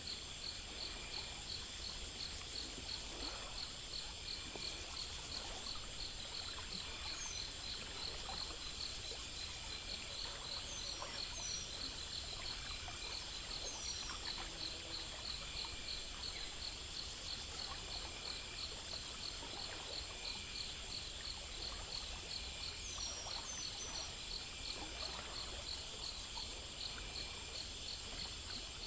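Chorus of crickets and other insects chirping in rapid, evenly repeating trills, with a steady high-pitched drone and an occasional short falling chirp, over a faint steady hiss.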